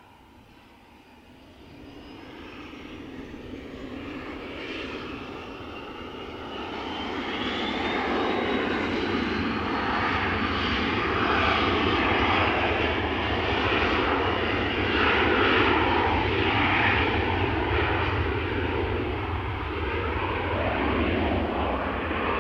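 Airliner's engines growing steadily louder as it takes off, a whine rising in pitch over the first several seconds and then holding, with a heavy rumble that peaks past the middle.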